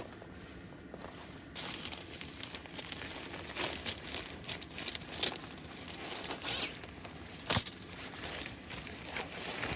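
Rustling and crinkling handling sounds, like packaging or a plastic bag being handled, with scattered light clicks and one sharp knock about seven and a half seconds in.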